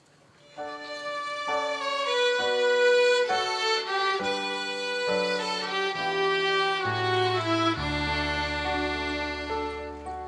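Children's violin ensemble playing the song's instrumental introduction: a slow melody of held notes. A deep sustained bass note enters about three-quarters of the way through.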